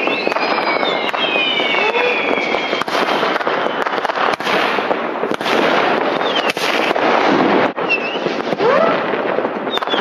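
Many New Year's Eve fireworks and firecrackers going off at once: a continuous loud crackle dotted with sharp bangs, with rocket whistles that fade out about three seconds in.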